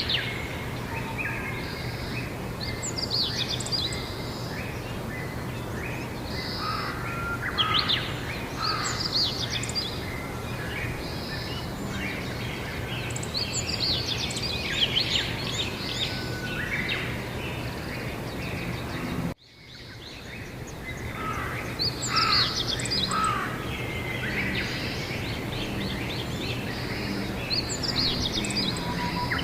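Several songbirds singing and chirping at once, with short trills and calls overlapping throughout, over a steady low hum. About two-thirds of the way through, the sound cuts out abruptly and then fades back in.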